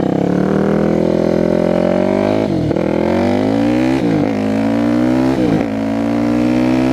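2006 Yamaha WR450F supermoto's single-cylinder four-stroke engine accelerating through the gears, its pitch climbing and then dropping sharply at three upshifts before settling to a steady cruise. The exhaust is a loud FMF slip-on whose packing is blown out.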